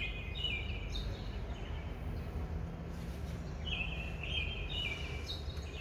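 Songbird singing outdoors: two phrases of quick chirping notes, one at the start and another from about halfway through, over a steady low background noise.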